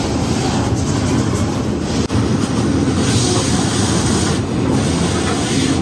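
Passenger train car rolling along the track, a steady loud rumble and rush of noise heard at an open window, with a brief break about two seconds in.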